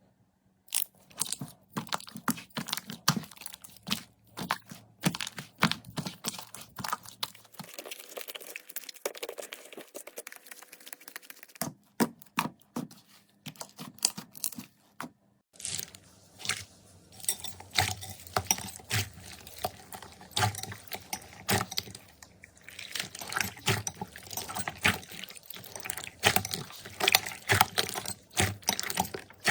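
Slime being squeezed, stretched and poked by hand, giving a busy run of wet, sticky pops and crackling clicks, with the sound changing abruptly a few times as one clip of slime gives way to another.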